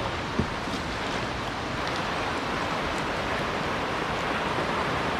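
Rushing water of a shallow mountain-river rapid running steadily, with one light knock about half a second in.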